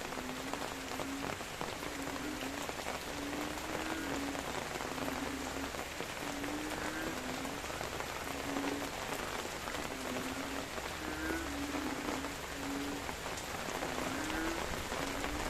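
Steady rain pattering on leaves, with frogs calling in the background: short low croaks repeating a little more than once a second, and a few faint higher chirps now and then.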